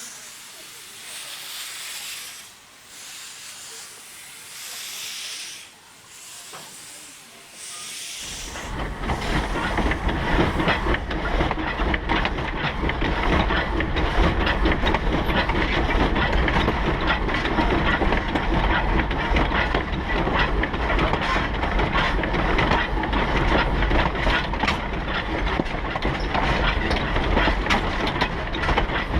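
Steam hissing from the 0-6-0T saddle-tank locomotive, swelling and fading about once a second. About eight seconds in, the sound switches abruptly to a much louder deep rumble with rapid rail clatter from the train on the move.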